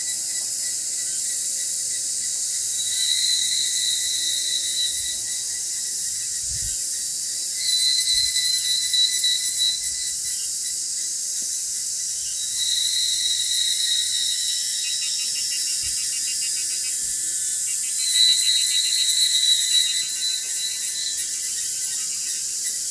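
Cicadas singing in chorus: a dense, high, ratcheting buzz that swells louder about every five seconds.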